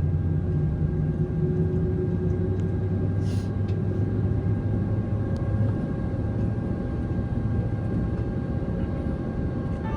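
Steady cabin hum of a Boeing 767-300ER airliner holding on the ground before taxi, a low drone with a few steady tones in it. The deepest part of the hum drops away about six seconds in, and a short hiss sounds about three seconds in.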